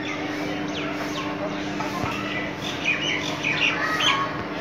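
Birds chirping in short high calls and quick falling notes, thickest in the second half, over a steady low hum.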